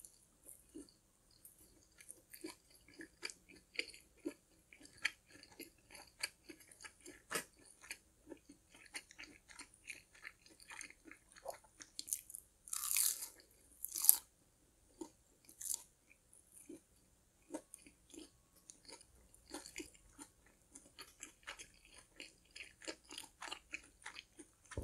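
Close-up chewing of a fried cheddar cheese curd: soft, wet chewing with small crisp crackles, and a few louder crunching bites about halfway through.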